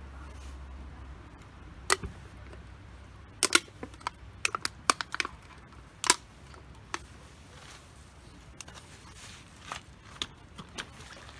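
Firewood burning in a campfire, crackling with irregular sharp pops, a cluster of them in the first half and a few softer ones later.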